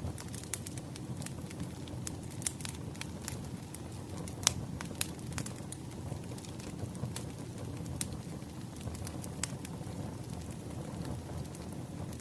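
Wood fire crackling: a steady low rumble of burning logs with irregular sharp pops and snaps, one louder pop about four and a half seconds in.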